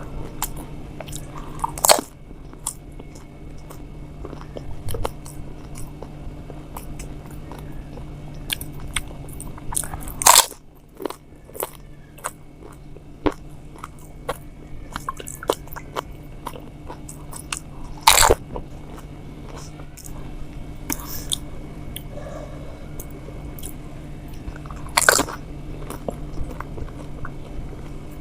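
Close-up eating sounds of a woman biting into crisp, hollow pani puri shells and chewing them, with a few loud sharp crunches spread several seconds apart among many small crackles, over a steady background hum.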